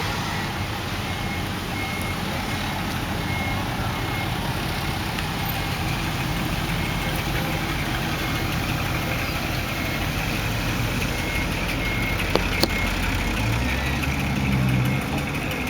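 Car engines running and idling as vehicles drive off, with a reversing beeper sounding a steady run of high beeps, about two a second, in the first few seconds and again later. A deeper engine note swells near the end, with a couple of sharp clicks just before it.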